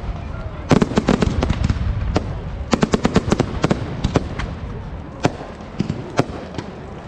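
Fireworks display: rapid sharp cracks and bangs in dense clusters, about a second in and again around three seconds in, thinning out to scattered single bangs near the end.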